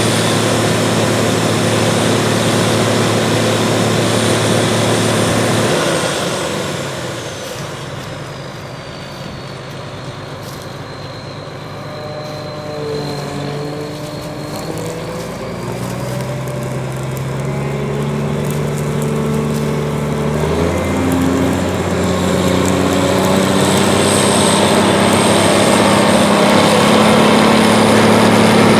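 A Case International 1660 Axial-Flow combine running as it harvests soybeans, with a steady engine note and a high whine. About six seconds in, the sound fades and the high whine falls in pitch. The engine note then shifts pitch a couple of times and grows louder again toward the end.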